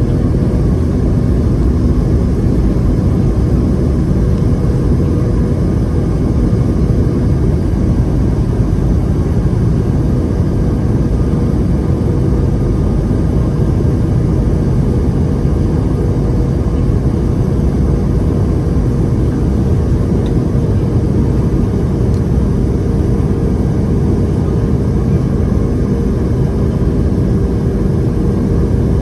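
Boeing 757-200 cabin noise in flight: a steady drone of the jet engines and airflow, with a faint steady hum running through it.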